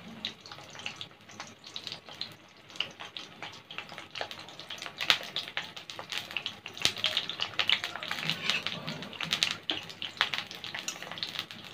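Whole slit baby brinjals frying in hot ghee in a kadhai: a soft sizzle with scattered crackling pops, the spatter growing denser about halfway through.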